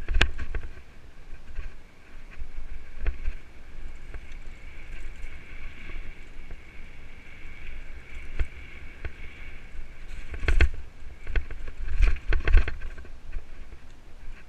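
Mountain bike ridden over a rough trail: the bike rattles and knocks sharply over bumps, loudest at the start and again about ten and twelve seconds in, over a low rumble from the tyres and wind.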